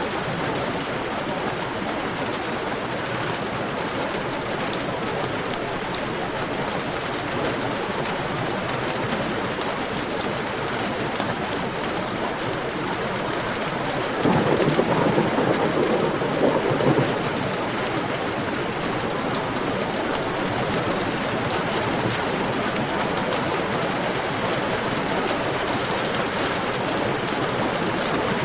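Heavy rain falling steadily. About halfway through there is a sudden louder, deeper surge that lasts about three seconds.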